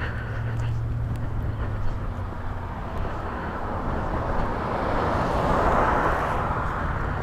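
A vehicle passing by outdoors: its noise swells to a peak about six seconds in and then fades. A low steady hum sits underneath at the start.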